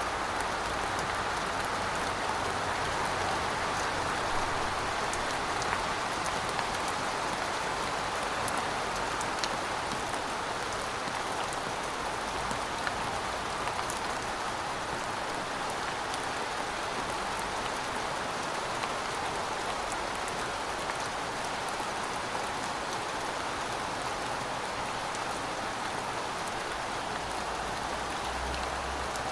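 Heavy rain falling steadily: a dense, even hiss sprinkled with the ticks of individual drops.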